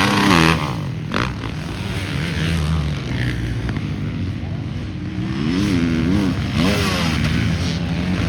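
Motocross bikes running on the track, their engines revving up and down as riders work the throttle and shift. The pitch swings sharply up and down about five and a half seconds in and again about a second later.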